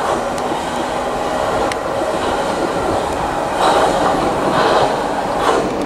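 Class 313 electric multiple unit pulling away on its wheels and running gear, a steady rail noise with a few faint clicks early on. The noise swells louder three times in the second half.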